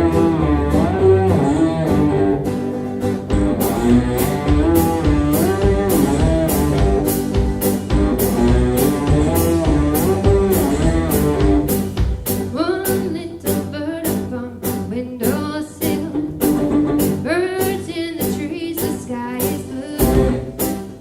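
Live band performance of a song: plucked guitar and singing over a steady beat of about two strokes a second.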